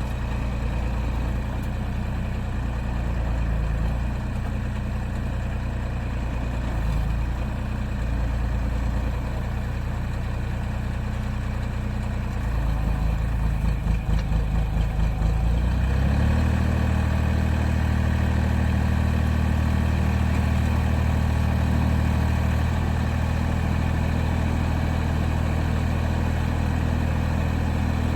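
A 1.8-ton mini excavator's three-cylinder engine running steadily at low speed. After a pulsing, wavering stretch, about sixteen seconds in it steps up to a higher, louder engine speed and holds there.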